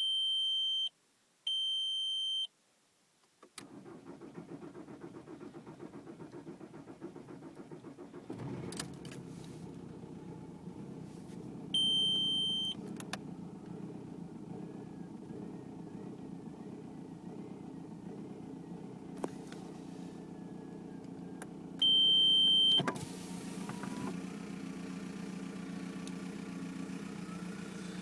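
1999 VW Golf Mk4 GT TDI's AHF 1.9 TDI four-cylinder diesel being started: a long start that catches about eight seconds in, then settles into a lumpy, rough idle. An electronic chime beeps twice at the start and twice more later on.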